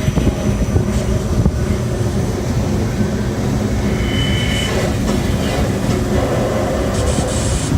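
Loud, steady rumble of rushing wind from a hurricane simulator's blowers, buffeting the microphone, with a brief high tone about four seconds in and gusts of hiss near the end.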